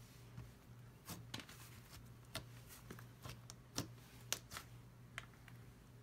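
Butter slime being squished and poked by hand, making faint, irregular little clicks and pops, about a dozen of them.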